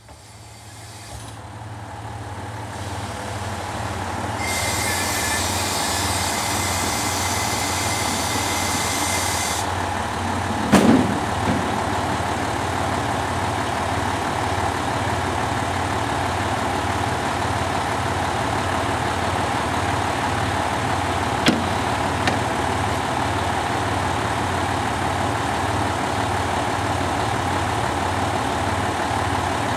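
KiHa 185 series diesel railcar's engine idling with a steady low throb. A loud hiss comes in about four seconds in and lasts about five seconds, with a knock about eleven seconds in.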